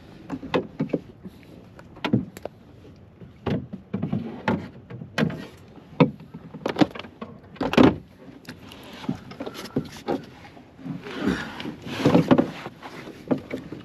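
Irregular knocks and thuds on a canoe's hull, a dozen or more, from paddling and gear being moved about on board, with a longer scraping rush near the end.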